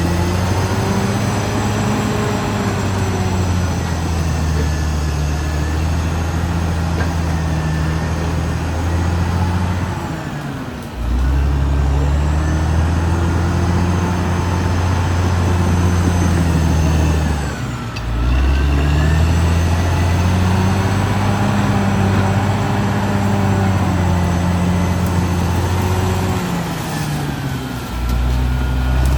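Caterpillar D6R XL bulldozer's diesel engine running loudly as the machine works, its pitch sagging briefly and picking back up three times.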